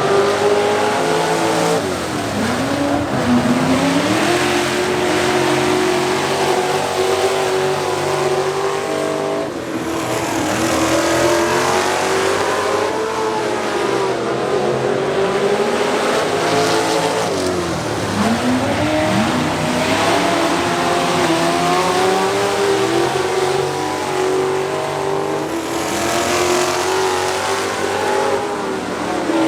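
Race truck engines running hard around an oval. The pitch drops as they lift off into a turn and climbs again as they get back on the throttle, twice.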